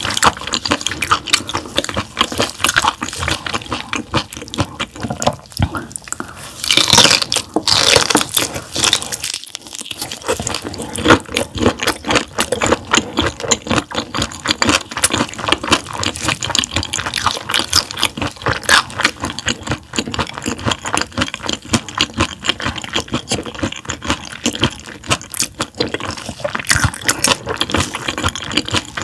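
Close-miked wet chewing and crunching of raw gizzard shad sashimi: a dense run of small crunches throughout, with a louder, longer noisy burst about seven seconds in.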